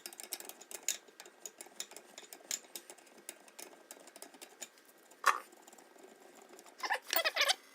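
Quick, irregular light clicks and ticks of hand tools and metal parts being worked during a hydraulic line repair on a John Deere 2020 tractor, with a short whine near the end.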